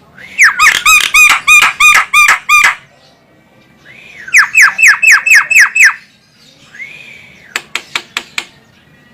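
Female Javan myna (jalak kebo) calling: two runs of rapid, repeated harsh notes, about three to four a second, the second run of quick downward-sliding notes. Near the end, a soft slurred note and a fast series of sharp clicks.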